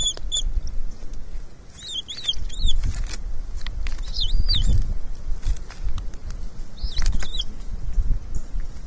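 Bald eagles at the nest chirping: short, high, wavering peeps in four brief clusters, over a low rumble of wind on the microphone.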